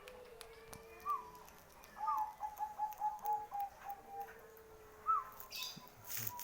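Bangkok-line zebra dove (perkutut) cooing: a short rising-and-falling opening note, then a run of about nine quick, clipped coos, and another rising note near the end. A brief rustle near the end.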